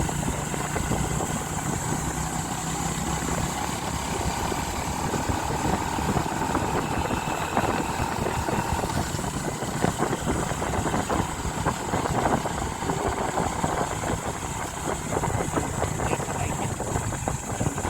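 A vehicle's engine running steadily, with a constant rumble and a high hiss over it.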